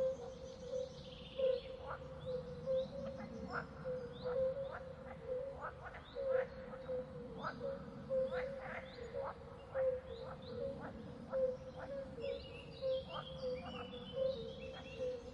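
Birds chirping, short quick calls coming about twice a second over a steady hum and a soft background hiss.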